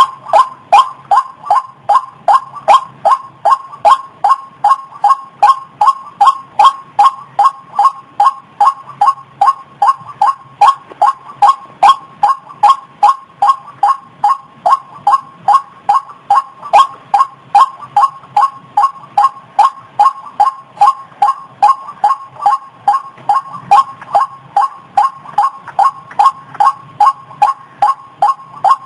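White-breasted waterhen calling: a steady, unbroken series of short, loud, pitched notes, about two to three a second, the repetitive call used as a lure call for the species.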